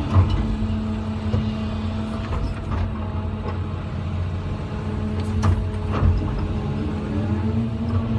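Heavy truck's diesel engine running steadily, with a few short knocks near the start and about five and six seconds in.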